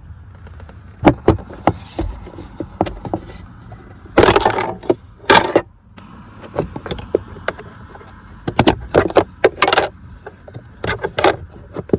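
Hands working a car's cabin air filter housing: a string of sharp plastic clicks and knocks, with two longer scraping, rustling bursts about four and five and a half seconds in as the filter is slid out or in.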